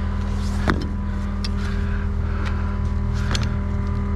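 An engine running steadily at idle, with a few sharp clicks or knocks on top.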